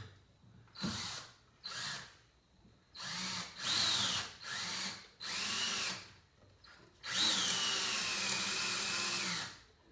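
Electric drill driving a screw in at an angle into wood, in several short trigger bursts and then one longer run of about two and a half seconds near the end. In that run the motor's pitch drops and holds as it comes under load.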